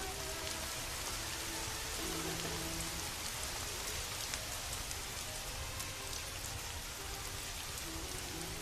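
Steady rain falling, a constant even hiss with scattered drop ticks, with faint soft held musical tones underneath.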